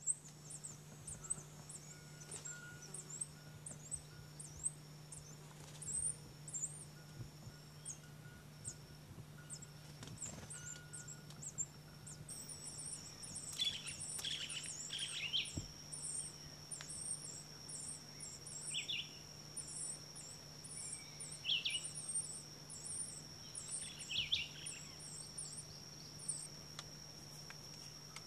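Birds chirping: a steady series of high, thin chirps about twice a second, with a few lower chirps in the middle. A steady high insect buzz comes in about twelve seconds in and holds on, over a low steady hum.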